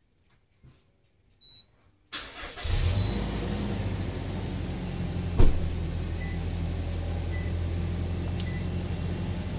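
Car engine cranking and catching about two seconds in, then idling steadily, after a short beep. A sharp click comes about halfway through, and three faint short beeps about a second apart follow near the end.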